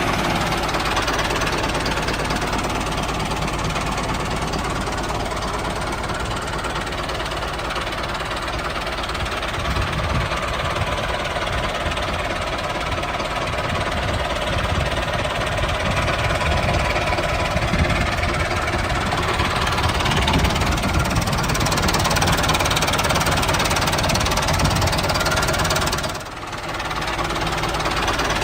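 A small motor running steadily with a fast, even pulsing beat. It dips briefly near the end.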